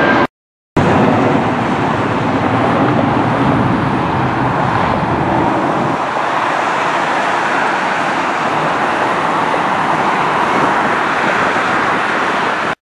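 Jet airliner engine noise, a steady loud rush with no clear tone, cut to silence briefly just after the start and again near the end.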